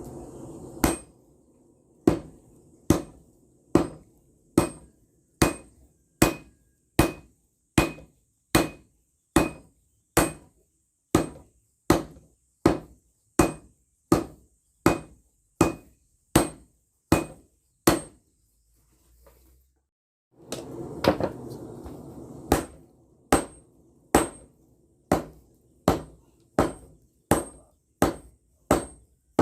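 Hand hammer forging steel on an anvil: sharp ringing metal strikes at a steady pace of a little over one a second, about twenty of them, then a pause and a short rushing noise, then the strikes start again. The steel is rail steel being forged into a machete blade.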